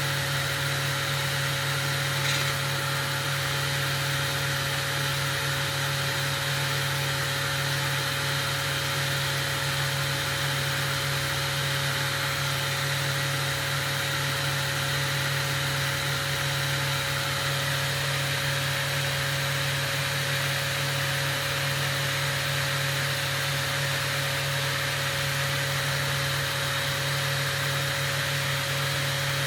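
Steady hiss with a low hum and a thin steady tone from glassblowing workshop equipment, unchanging throughout, with one faint click a couple of seconds in.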